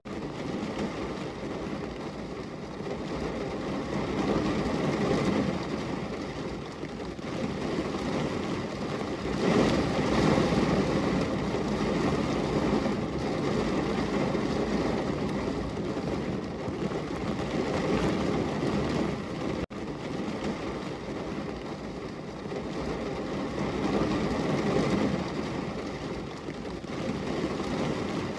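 Heavy rain pouring steadily on a window, a dense, even hiss that swells and eases every few seconds, with one split-second dropout about twenty seconds in.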